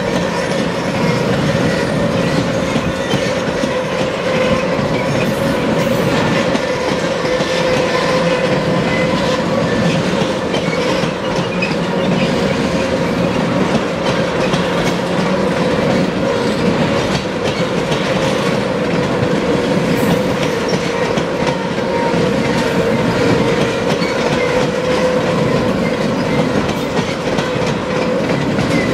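Freight train of tank cars rolling past at steady speed: a continuous rumble of steel wheels on rail, with many short clicks over the rail joints and a steady whining tone over it.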